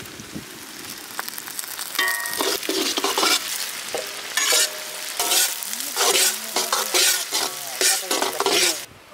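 Tomatoes sizzling as they hit hot oil in an iron kadai, with a metal ladle stirring and scraping the pan. The sizzle swells about two seconds in, comes in repeated strokes with the stirring, and cuts off suddenly near the end.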